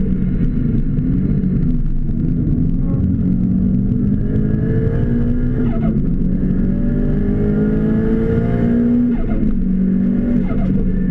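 Car engine heard from inside the cabin, accelerating hard under full throttle and shifting up about every three seconds, the pitch rising through each gear and dropping at each shift.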